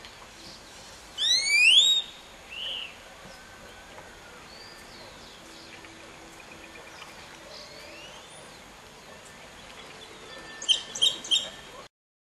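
Great-tailed grackle calling: a loud rising whistle about a second in, then a shorter note. Faint calls of other birds follow, and three sharp, loud notes come near the end.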